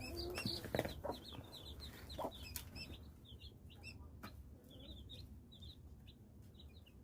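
Cheonggye chicks peeping softly: many short, high cheeps repeating steadily, with a few light knocks in the first few seconds.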